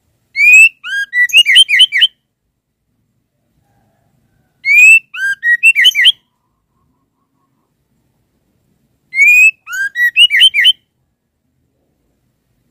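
Female white-rumped shama calling: the same short phrase three times, about every four and a half seconds. Each phrase is a rising whistle followed by a quick run of short upslurred chirps.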